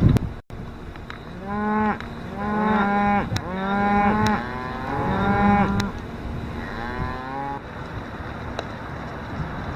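Cattle mooing, several long calls overlapping one another from about a second and a half in to about six seconds, then one fainter moo a little later.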